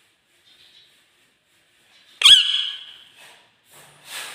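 A pet parrot gives one sharp, high-pitched squeak-like call about two seconds in, fading over about a second; quiet before it.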